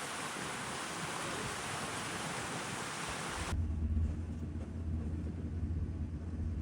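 A steady outdoor rushing noise cuts off abruptly about three and a half seconds in. It gives way to a low, steady engine hum, like a vehicle idling.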